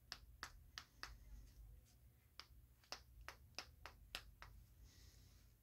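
About a dozen faint, irregular clicks and taps of small metal engine parts being handled: the cylinder sleeve being worked into a tight nitro RC engine crankcase.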